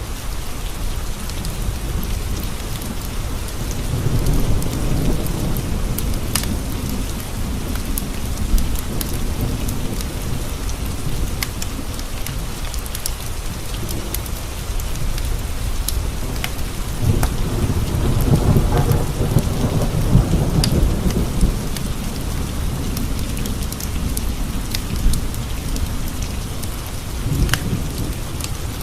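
Steady rain pattering on windows. Thunder rolls twice, a low rumble about four seconds in and a longer, stronger one around seventeen seconds in. Scattered sharp crackles from a wood fire are heard over it.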